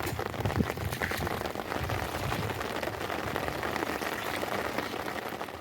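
Dense, steady pattering of water, many small drops and splashes.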